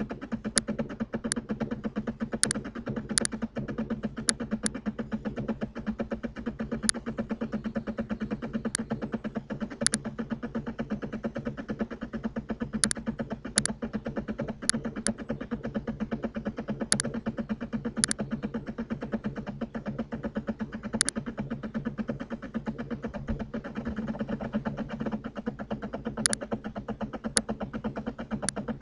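Computer mouse clicks, sharp and irregular, some single and some in quick double-click pairs, over a steady buzzing background hum.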